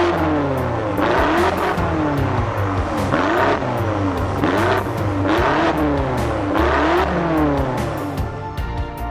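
BMW F86 X6M's twin-turbo V8 revved repeatedly, about once a second, each rev rising and falling in pitch, through an exhaust with a modified mid-pipe and rear section set for maximum loudness. Background music plays underneath and takes over near the end as the revving stops.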